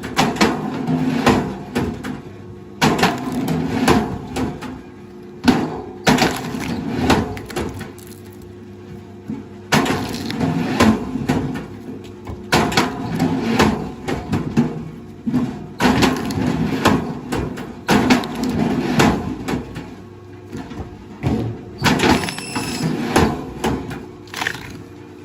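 Wood cracking and splintering under a heavy machine: irregular sharp cracks and crunches, several a second at times, over a steady low machine hum.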